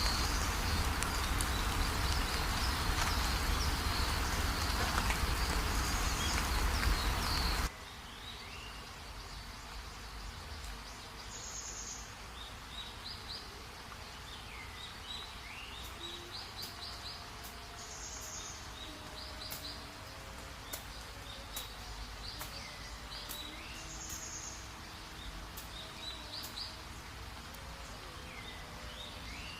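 Heavy rain hissing steadily, cut off suddenly about a quarter of the way in, giving way to quieter forest ambience in which a bird repeats the same short phrase of chirps and falling whistles about every six seconds.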